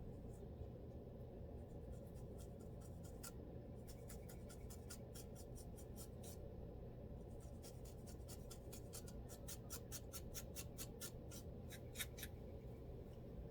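Close-up scratching at a scalp through the hair to lift dandruff: runs of short, quick, dry scratch strokes, about five a second, pausing between runs, with one louder stroke near the end, over a faint steady low hum.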